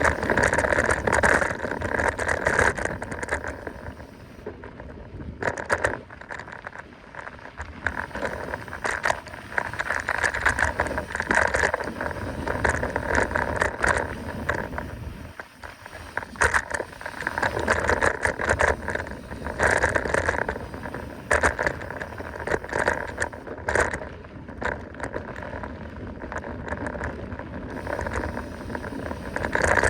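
Mountain bike riding fast down a dirt trail: tyres rolling over the ground, with the frame and chain rattling and knocking over bumps. The noise surges and eases as the speed and terrain change.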